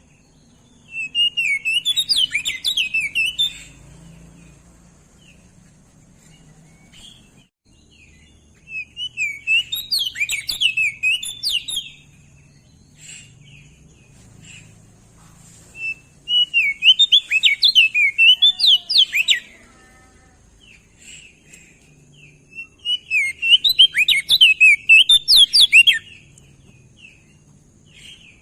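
Crested white-eye singing: four bursts of rapid, high twittering chirps, each about three seconds long and several seconds apart.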